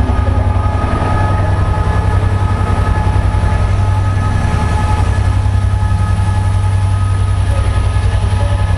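Train at a station: a loud, steady low hum with a few faint steady whining tones above it.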